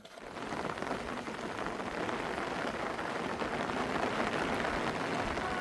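Heavy rain falling: a dense, steady pattering and hiss of drops.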